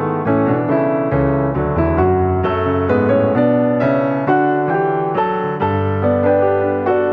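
Background piano music: a steady stream of gentle piano chords and notes.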